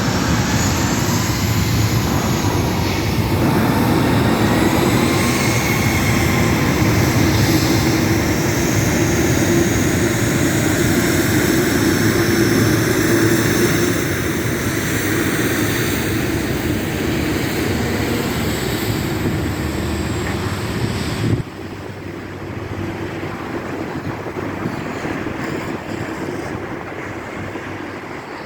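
Boeing 737 MAX 8 jet engines at takeoff power: a loud steady roar with slowly gliding engine tones, dropping suddenly to a lower roar about 21 seconds in.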